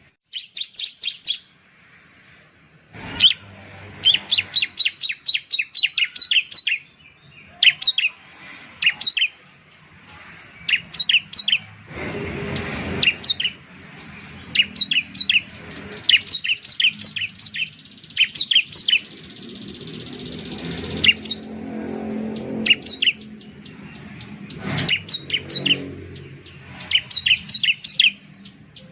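Bar-winged prinia (ciblek) singing: bursts of rapid, sharp, high chirps, each burst a quick run of several notes, repeated every second or two. A faint low rumble comes in twice in the background.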